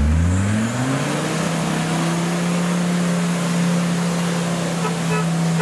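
Off-road 4x4's engine revving up over the first second or so, then held at high, steady revs under load in mud.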